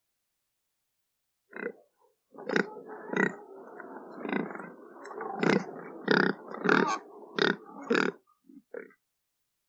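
A pig grunting and squealing in a run of about ten short, harsh calls, starting about a second and a half in and stopping just before the end.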